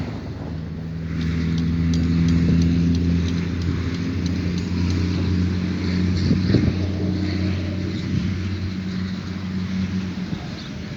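A motor engine running steadily, a low hum that swells slightly about a second in and eases off near the end.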